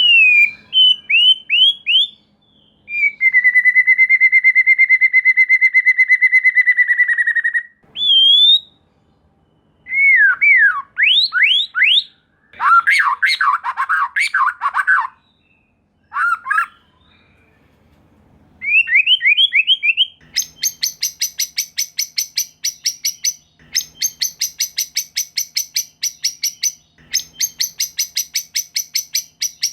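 White-rumped shama (murai batu) singing: quick rising whistled notes, a long steady whistle with a fast trill, and tumbling varied phrases. From about two-thirds of the way in come fast, harsh rattling notes repeated in bursts.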